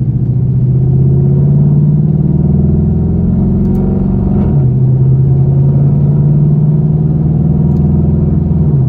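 Straight-piped, tuned 6.2-litre V8 of a 2013 Camaro 2SS pulling under load. Its drone climbs slowly in pitch, then drops with an upshift about halfway through and again at the very end.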